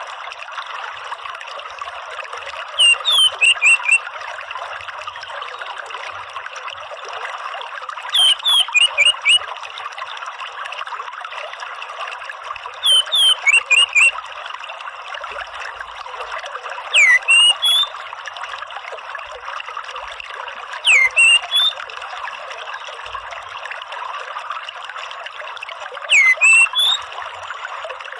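Orange-headed thrush calling in six short bursts, each a quick run of three to five sharp, sliding notes, about every four to five seconds. Under the calls runs a steady trickle of running water.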